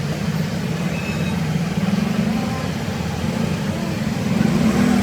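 A steady engine drone with faint voices underneath.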